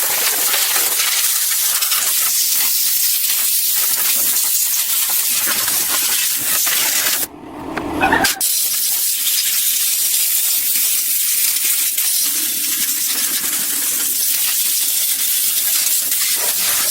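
Steady loud hissing spray, stopping for about a second near the middle and then resuming.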